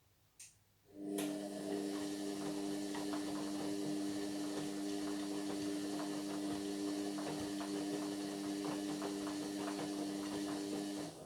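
Indesit MyTime washing machine: a click, then a steady mains hum with water rushing and crackling for about ten seconds, which cuts off suddenly near the end followed by another click.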